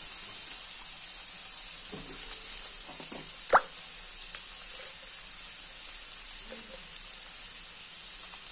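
Fish, onion and garlic mixture frying in oil in a wok: a quiet steady sizzle with a few small pops, and one sharp pop about three and a half seconds in.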